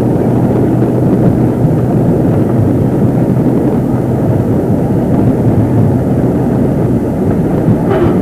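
Steady drone of a motorboat engine running, heard from aboard the boat.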